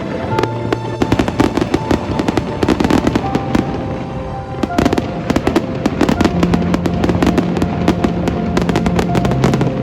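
Fireworks going off in a dense, rapid barrage of bangs and crackles, with music playing alongside.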